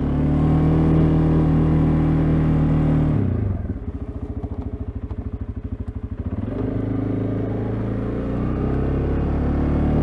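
CFMoto CForce ATV's single-cylinder engine working hard at steady revs while plowing snow. About three seconds in it drops back to a pulsing idle, then revs up again a few seconds later and holds there.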